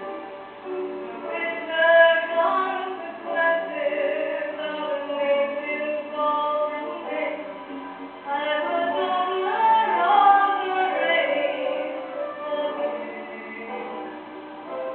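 A female voice singing a musical-theatre ballad, with several long held notes.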